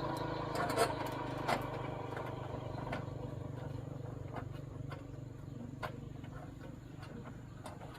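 Small 110cc motorcycle engine running at a steady idle, slowly fading, with a few sharp clicks over it.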